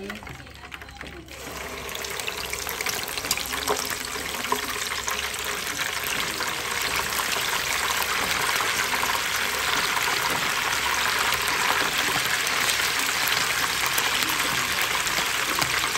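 Chicken pieces frying in hot oil in a frying pan: the sizzle starts about a second in as the first pieces go in and grows louder as more are added, with a few sharp spatters early on.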